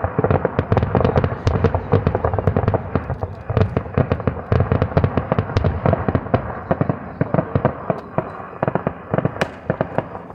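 Fireworks going off: a dense, rapid stream of cracks and bangs that thins to scattered pops over the last couple of seconds.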